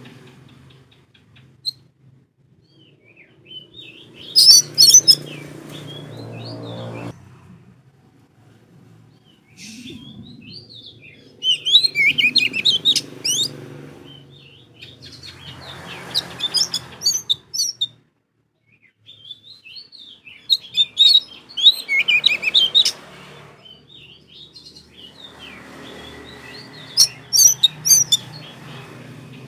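Oriental magpie-robin (kacer) song: loud phrases of rapid, high chattering and whistled notes, coming in bursts a few seconds apart.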